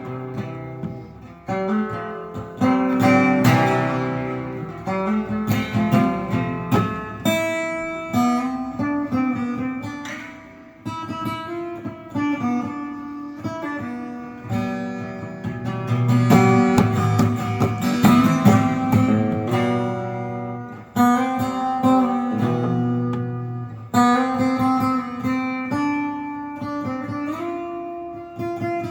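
Instrumental break of a song: a guitar playing a run of plucked notes and chords, with no singing.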